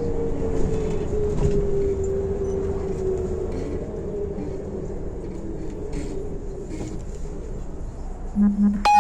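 Inside a MAZ-105 articulated city bus: steady engine and road rumble with a whine that falls slowly in pitch over the first few seconds. Near the end, short beeps sound, and then an electronic chime starts.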